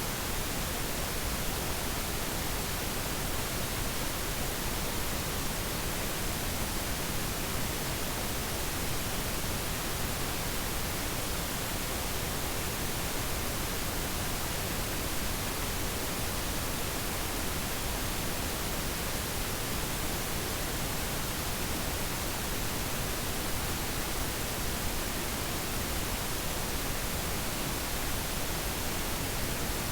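Steady, unchanging hiss of static noise, even across all pitches, with nothing else heard.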